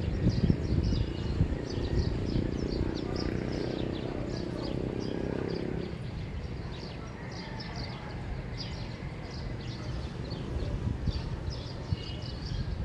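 Morning neighbourhood ambience: many small birds chirping continuously over a low rumble. The rumble is heavier in the first half and eases about six seconds in.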